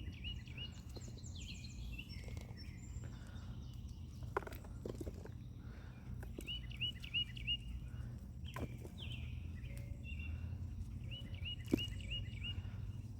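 A songbird singing a quick run of five or six repeated, slurred chirping notes, three times over, over a steady low outdoor rumble. A few sharp knocks from digging by hand in the garden soil come in between.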